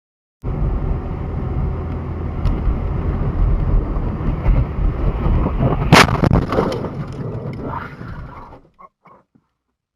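Car driving with loud, steady road and engine noise, then a single sharp, loud crash impact about six seconds in; the noise dies away shortly after.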